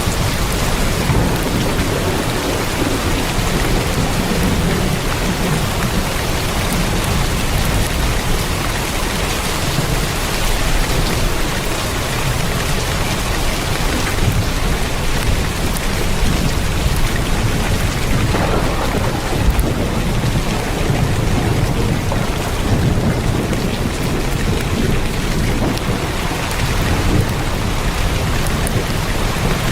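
Heavy rain drumming steadily on a tin roof, a dense even hiss over a constant low rumble.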